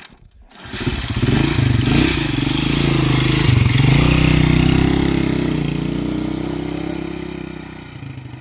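A motor vehicle's engine running. It comes in suddenly about half a second in, grows loud, then slowly fades near the end.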